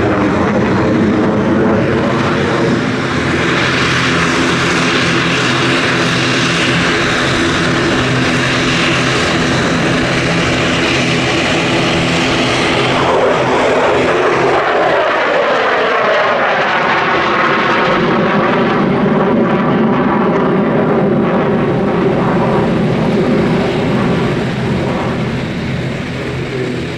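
Danish F-16 Fighting Falcon's jet engine, loud and continuous, as the fighter flies its display. About halfway through, the pitch sweeps down as the jet passes, and the noise eases slightly near the end.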